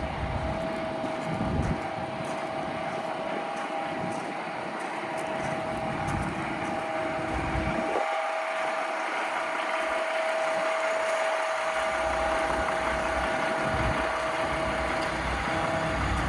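Paccar MX-13 diesel engine of a Peterbilt 579 tractor idling, with a steady whining tone above the engine sound.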